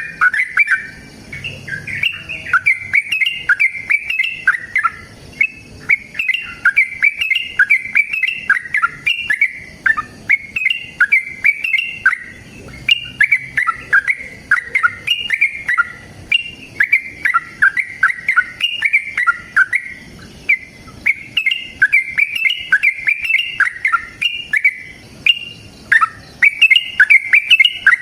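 Yellow-vented bulbul (trucukan) singing its long, fast chattering 'ropel' song: run after run of bubbly, warbling chirps with only short pauses between them. This is the aggressive, challenging song used to provoke other bulbuls into answering.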